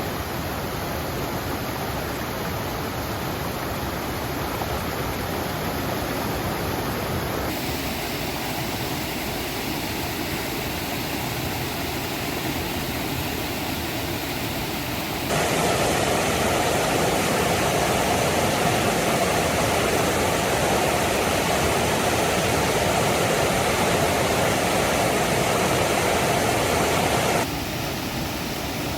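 Steady rush of a mountain creek's waterfall cascade. It gets plainly louder about halfway through and drops back near the end.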